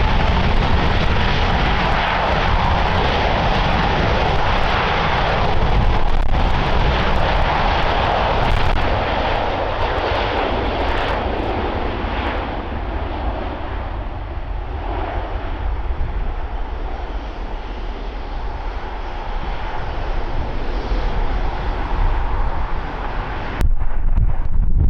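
An Airbus A350-1000's Rolls-Royce Trent XWB-97 turbofan engines make a loud, steady jet noise as the airliner takes off or lands. Near the end the sound cuts off abruptly to wind noise on the microphone.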